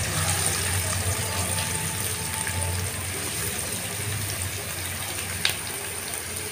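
Chopped onions sizzling as they go into hot oil in an aluminium pan, a steady rain-like hiss, with one short tap about five seconds in.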